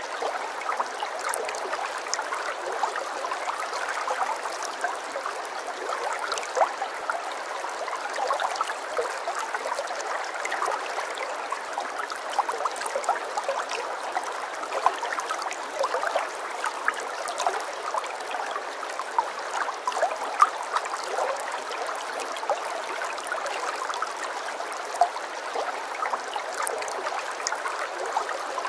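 Running water, like a small stream, trickling steadily with many small splashes and drips.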